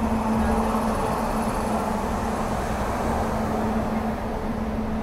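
Passenger train coach rolling along a station platform, heard at its open door: a steady rumble of running gear with a constant low hum.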